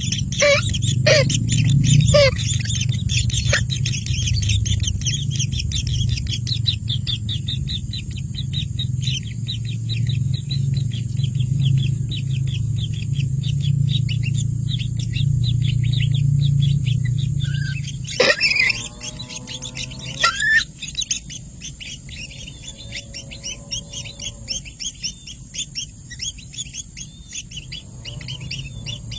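A flock of small birds chirping densely and rapidly. A low steady hum underneath stops abruptly about two-thirds of the way in, after which the chirping continues more faintly with a few lower, drawn-out calls.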